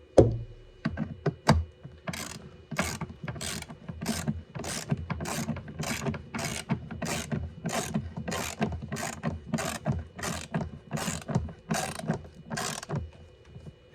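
Hand ratchet clicking as it snugs down the screws on a box lid: a couple of knocks, then a steady run of back-swing clicks at about two a second that stops shortly before the end.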